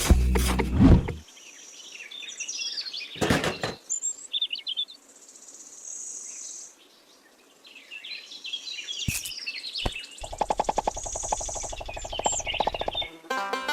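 Birds chirping and twittering, scattered high calls throughout. A loud low sound fills the first second, and from about ten seconds in a low buzzy rattle joins the birds for about three seconds.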